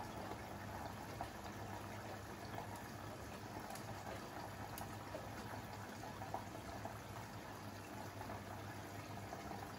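Siemens iQ700 WG56B2090 front-loading washing machine mid-wash: water swishing in the turning drum over a steady low hum, with a couple of faint ticks.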